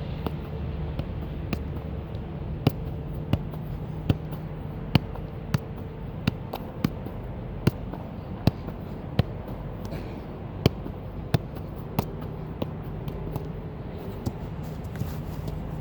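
A series of sharp knocks, about one every 0.7 seconds and fainter near the end, over a steady low hum.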